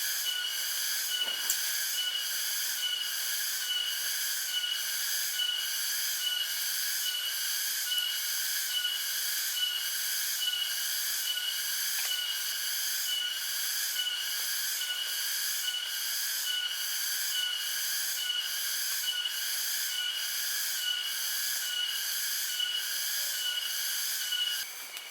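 Insects calling in a loud, steady pulsing buzz of high tones, about one and a half pulses a second; the pulsing cuts off abruptly near the end.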